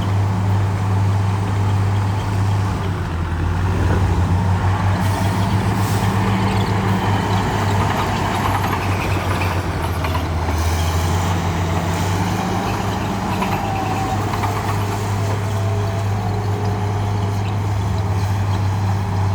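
Heavy construction-machine diesel engine running with a deep, steady drone, its pitch and load shifting a few times as the machine works.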